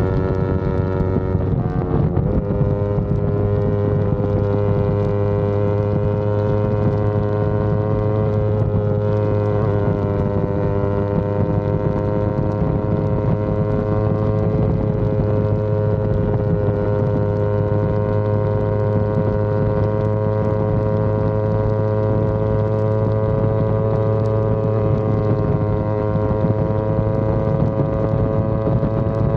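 Yamaha R25's parallel-twin engine running at steady high revs while riding, with a brief break in the note about two seconds in, then held evenly with the pitch creeping slightly upward.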